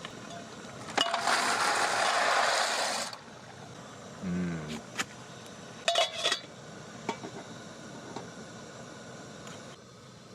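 Metal cookware clinking and knocking around a pot of boiling pasta, a few sharp clinks with a short ring. About a second in, a loud hiss starts suddenly and cuts off about two seconds later. A brief hum of a voice comes midway.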